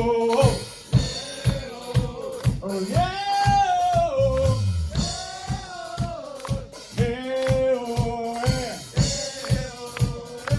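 Live rock band playing: a drum kit keeps a steady beat under long, held sung notes.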